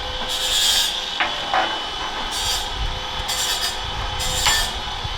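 Hand tools working on a steel armour plate: four short scraping strokes, with a few sharp knocks in between.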